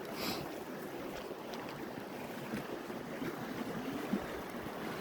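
Swift meltwater creek rushing steadily, with a brief hiss just after the start and a few faint clicks.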